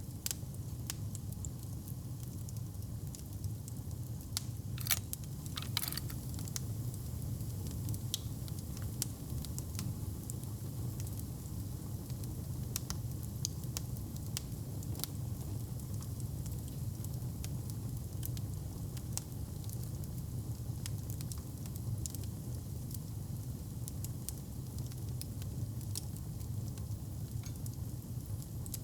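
Wood fire crackling in a fireplace: a steady low rumble under scattered pops and snaps, with a few louder pops about five and six seconds in.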